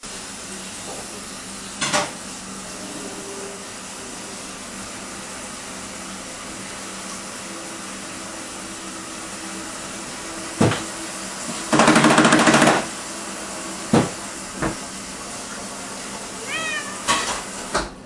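A cat playing with a toy: scattered sharp knocks and taps, a loud buzzing burst lasting about a second around the middle, and a few short high chirps near the end, over a steady hiss.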